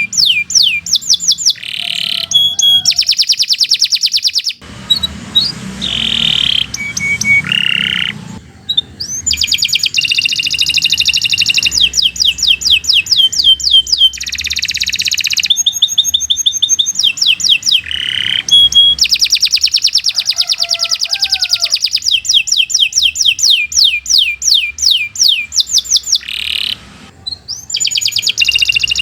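Domestic canary singing a long, fast song of rapidly repeated high trills and buzzy notes, with a few short pauses between phrases.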